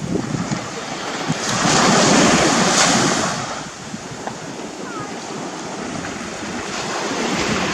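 Gulf surf breaking and washing up the beach, a steady rush of waves that swells about two seconds in and again near the end, with wind buffeting the microphone.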